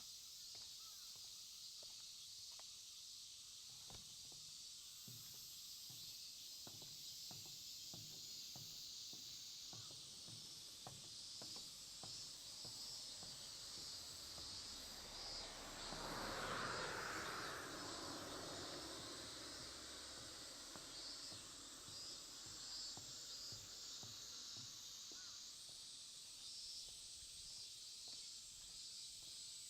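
Insects calling in a steady, pulsing high-pitched chorus, with a walker's footsteps. A vehicle passes about halfway through, swelling up and fading away.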